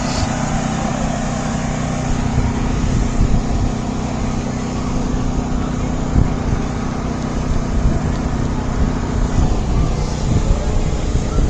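A vehicle engine running steadily with a low rumble and a constant hum; one part of the hum drops out about nine seconds in.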